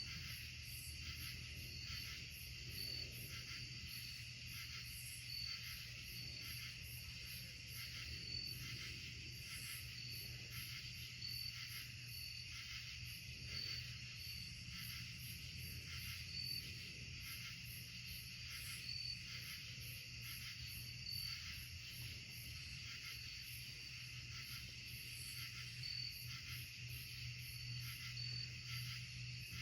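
Night insect chorus, crickets among them, chirping and trilling in several overlapping rhythms, one chirp repeating about every second and a half, over a steady low hum.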